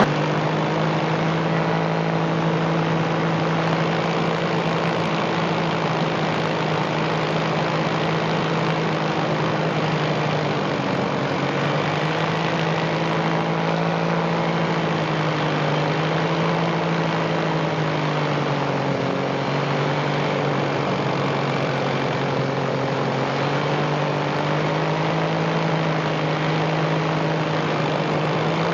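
Paramotor's engine and propeller running steadily in flight, with a rushing hiss of wind and air; about a third of the way in the engine note starts to waver gently up and down as the throttle shifts.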